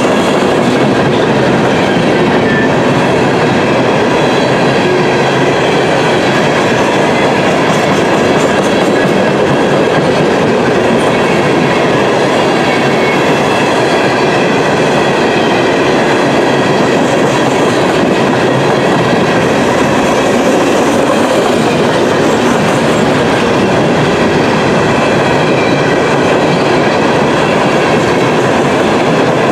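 An empty freight train of steel coal hopper cars rolling past close by: the wheels running over the rails make a loud, steady noise that does not let up.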